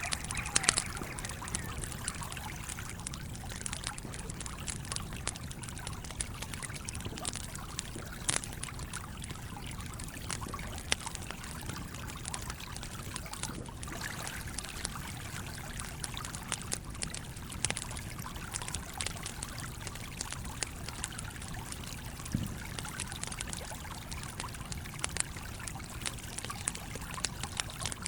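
Campfire crackling with irregular sharp pops, over the steady flow of a stream.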